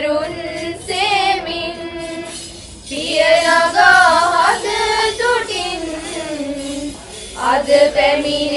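Sinhala wedding song: high voices singing long, wavering held notes, with two short breaks between phrases.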